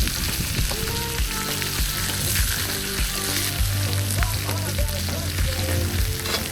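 Steak frying and sizzling in a hot pan, a steady hiss, with background music playing over it.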